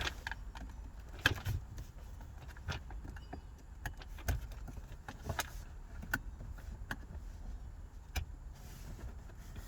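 Scattered light clicks and taps, irregular and a second or so apart, of a flat-head screwdriver working at the small metal clamps that hold a gear shifter to its wiring harness.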